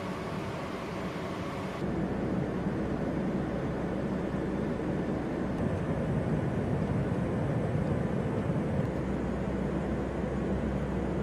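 Steady aircraft engine noise, a continuous even drone with no distinct events. Its tone shifts abruptly about two seconds in.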